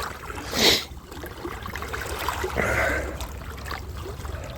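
Shallow river water sloshing and trickling around someone wading through it, with one brief louder rush of noise about half a second in.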